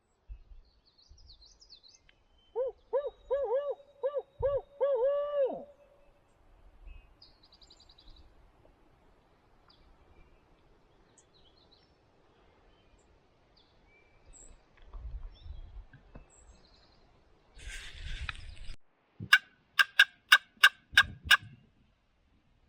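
Owl-style hooting, a quick run of about eight rising-and-falling hoots a few seconds in, the kind of call used to make a turkey gobble at first light. Near the end comes a fast string of about seven loud, sharp clacks.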